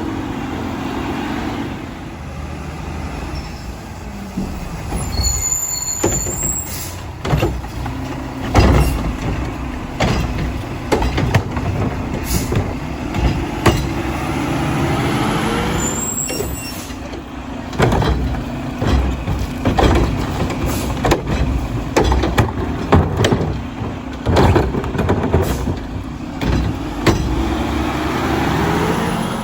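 Mack LR refuse truck with a Heil Odyssey body and Curotto Can cart arm working: the diesel engine runs and revs up as the hydraulics work, with many sharp clanks and bangs of metal and plastic through the middle.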